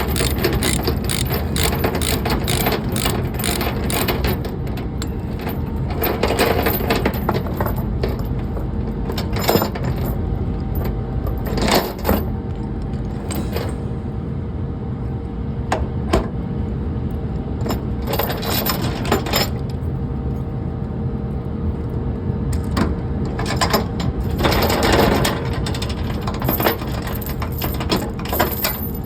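Idling truck engine with a steady low rumble, with scattered sharp clicks and metallic knocks from straps being handled and checked on a secured load.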